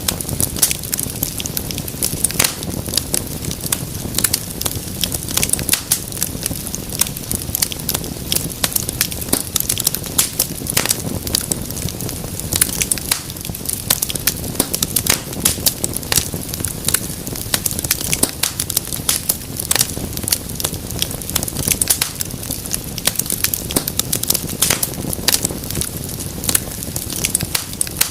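Fireplace fire crackling, with many sharp, irregular pops over a low steady rumble of burning.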